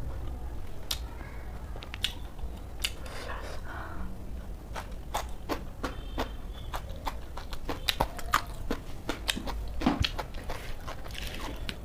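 Close-miked chewing of a raw shredded cabbage salad with rice, a quick run of sharp crisp crunches that grows denser in the second half.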